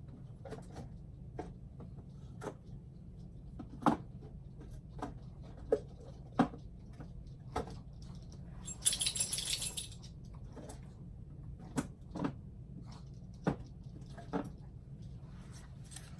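Scattered light clicks and knocks of paint bottles and cups being handled, with a brief hissy, scratchy burst about nine seconds in, over a steady low hum.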